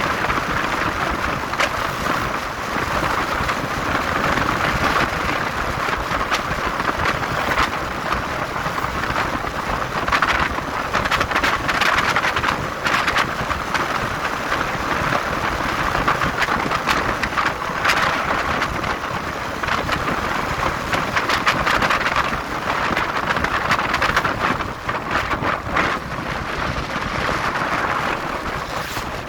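Motorcycle underway: a steady, loud rush of wind over the microphone together with road and engine noise, surging up and down.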